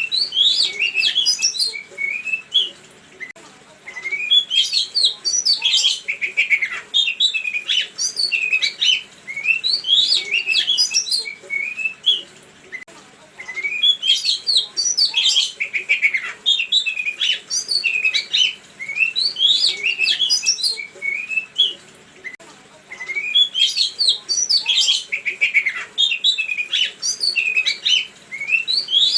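A songbird singing a fast string of varied chirps and whistled notes, in bouts several seconds long with short pauses between them. It is a recorded lure song played to provoke kept songbirds into answering.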